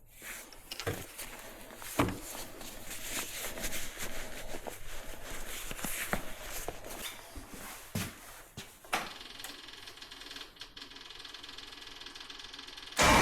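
Scattered knocks and crunching over a steady hiss, like someone moving about and handling gear in the snow. Near the end a loud tractor engine running cuts in abruptly.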